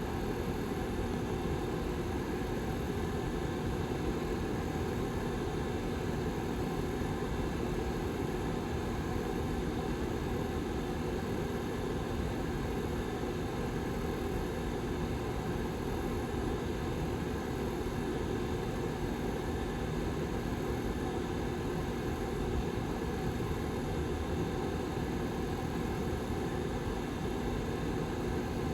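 Lasko 755320 ceramic tower heater's rear fan running steadily: an even rush of air with a low, constant hum under it.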